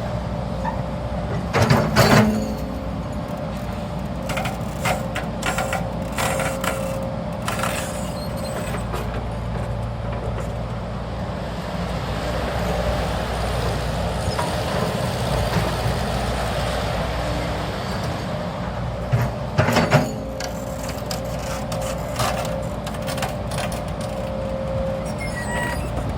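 A CAT 320 GC hydraulic excavator's diesel engine runs steadily, with a steady whine. Loud knocks come about two seconds in and again about twenty seconds in.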